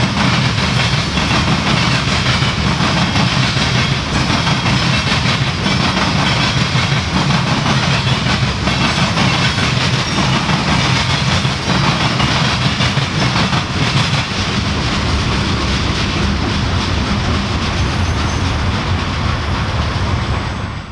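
Train of coal hopper cars rolling past, with a steady rumble and the clickety-clack of steel wheels on the rails.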